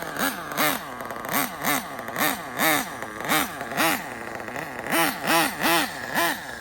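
RB CE sealed-backplate nitro engine in an RC drag car idling, blipped with short throttle stabs about twice a second, each rev rising and falling quickly in pitch. The blipping keeps the freshly started engine from shutting off.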